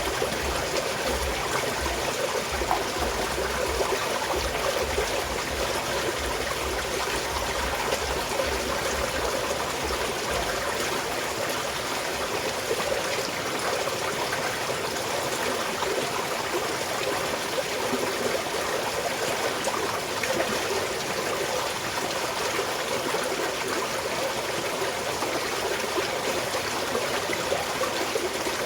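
Small mountain stream flowing and trickling steadily, with a low rumble underneath that stops about ten seconds in.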